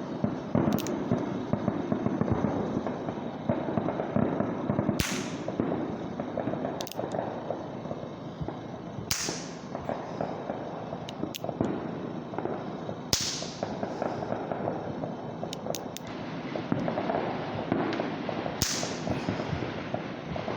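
New Year's fireworks and firecrackers going off all around at a distance: sharp bangs every two to four seconds, the louder ones trailing off in an echo, over a steady background noise.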